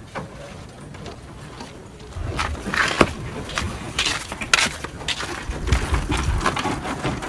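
Irregular sharp knocks and clatter, starting about two seconds in and repeating unevenly, with a low rumble near the end.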